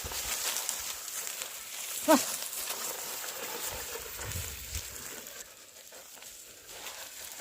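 An animal gives one short call about two seconds in, over a steady outdoor hiss.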